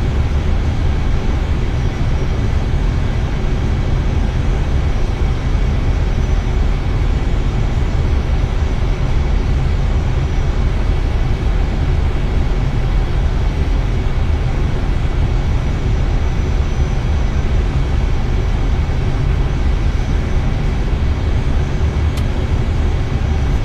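Steady rumble of airflow and engine noise in an Airbus A320 cockpit on final approach, with a faint high steady tone above it.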